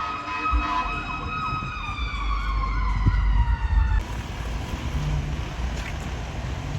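Emergency vehicle siren passing close by: a steady siren tone with a wavering sweep over it, both dropping in pitch as the vehicle goes past with a loud engine rumble. A little past halfway the siren cuts off abruptly, leaving engine and traffic noise.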